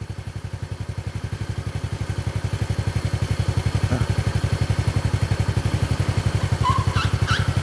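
A motorcycle or similar small engine idling close by, a steady, fast low pulsing of about ten beats a second that grows gradually louder. A few short high chirps come in near the end.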